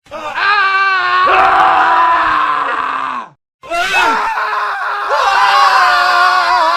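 Men screaming in a montage of clips cut back to back. A short wavering scream comes first, then a long scream that falls in pitch. After a brief silent gap about three and a half seconds in, more screaming follows.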